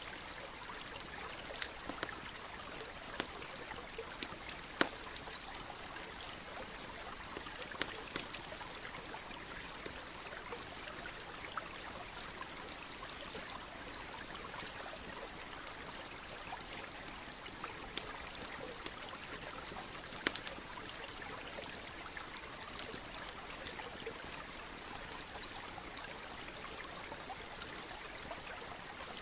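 Campfire crackling with scattered sharp pops, over the steady rush of a flowing stream.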